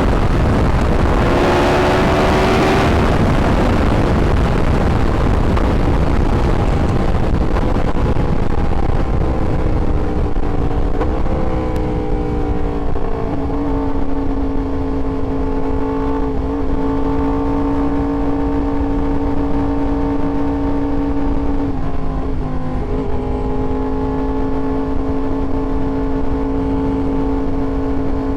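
Yamaha R1 sportbike's inline-four engine running on the move, over a strong rush of noise in the first few seconds. Its pitch falls gradually as the bike slows, then settles into a steady cruising note, dipping briefly a little past the two-thirds point.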